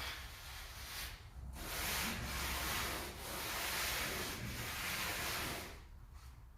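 A tool scraping over a floor mortar bed in long rough strokes, with short breaks between them, as when the sloped mortar base is being screeded and smoothed.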